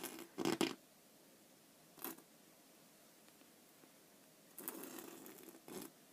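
Sand being brushed and swept by hand across the glass of a sand-animation table: a few short scraping swishes, the longest lasting about a second near the end.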